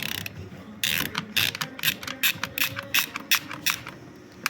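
Socket ratchet wrench clicking in a quick even run, about four or five clicks a second, starting about a second in, as the 16 mm nut holding a windscreen wiper arm is undone.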